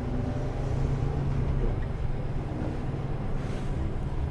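Mercedes-Benz Antos 1824 lorry's six-cylinder diesel engine running steadily at low speed, a low hum heard from inside the cab.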